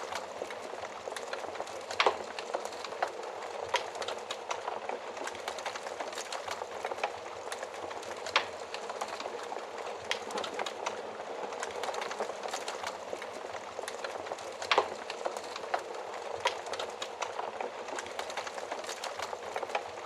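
Wood fire burning in an oven: a steady hiss of flames with frequent sharp crackles and pops, the loudest about two seconds in and again near three-quarters through.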